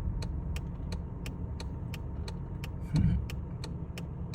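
Car engine idling with a steady low rumble, an even ticking of about three clicks a second over it. A brief louder thump about three seconds in.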